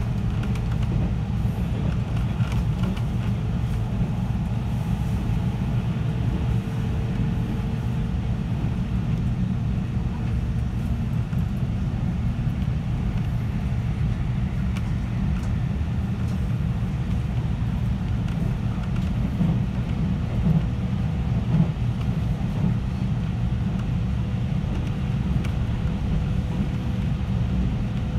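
Steady low rumble of a JR 313-series electric multiple unit running on the line, heard from inside the passenger car, with a faint steady hum over it at times.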